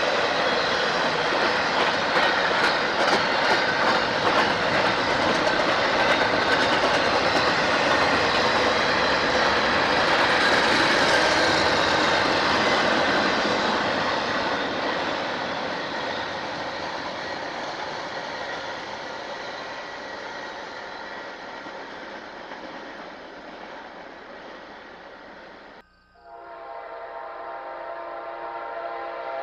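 A train rolling past, its wheels clicking over the rail joints, slowly fading as it moves away. Near the end, after a sudden break, a locomotive horn sounds a steady multi-note chord.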